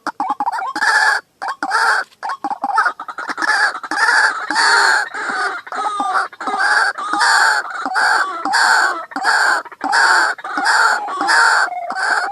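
White-breasted waterhen calling: a loud, harsh note repeated over and over, about one and a half a second, as used in a recording to lure the birds.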